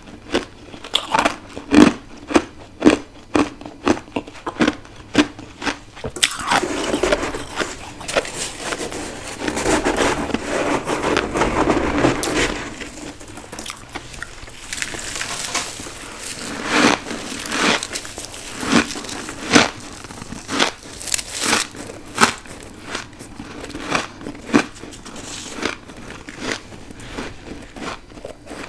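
A person biting into and chewing freezer frost, grown in a deep freezer with a humidifier. First comes a run of sharp crunching bites, a couple a second. About six seconds in this turns into several seconds of dense, continuous crunching, and after that scattered crunches follow.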